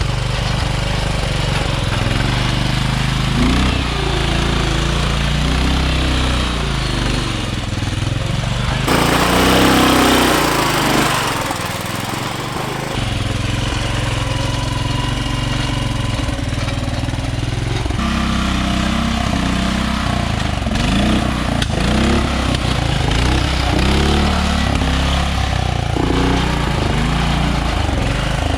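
Modified off-road lawn tractor engine running under load, its pitch rising and falling as it revs through the course. A loud rushing noise covers the engine from about nine to thirteen seconds in.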